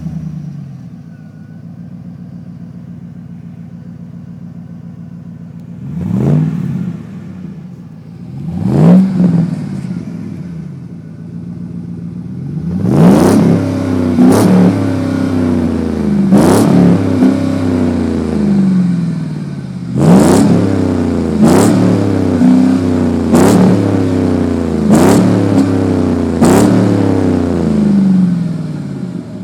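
2009 GMC Sierra pickup's engine through a Magnaflow exhaust: it idles steadily, is blipped twice, then revved in a run of about eight quick blips, each climbing and falling back to idle, before settling to idle again.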